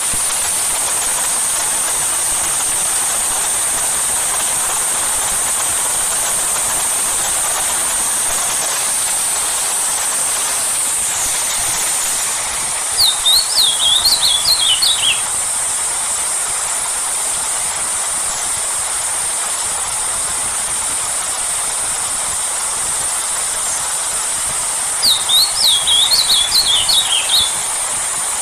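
Steady hiss of heavy rain falling. A songbird cuts in twice with a short phrase of quick, falling chirps, about halfway through and again near the end.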